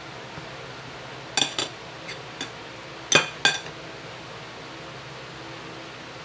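Dishes and cutlery clinking: about six short, sharp clinks over a couple of seconds, the loudest about three seconds in.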